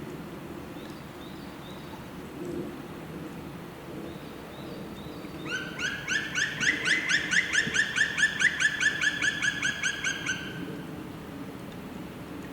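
A bird calling: a rapid run of about two dozen repeated notes, about five a second, that swells and then fades over about five seconds, starting about halfway in. A few faint, high short notes come before it, over a steady low background rush.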